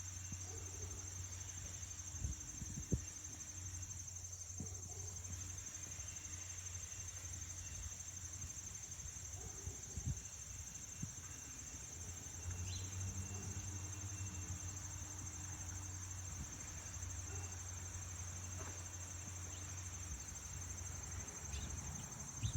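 Steady high-pitched chorus of insects chirring, with a low hum underneath that drops out now and then. A few brief low knocks, the loudest about three seconds in.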